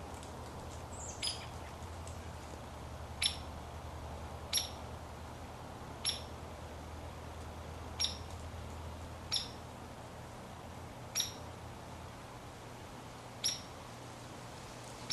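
A woodpecker giving short, sharp, high call notes, about nine of them at uneven intervals a second or two apart.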